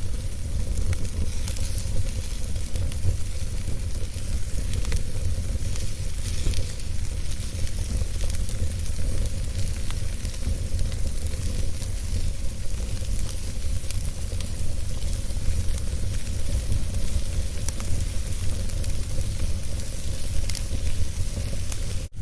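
Wood fire burning in a fireplace: a steady low rumble and hiss of the flames with irregular sharp crackles and pops. The sound drops out for an instant near the end.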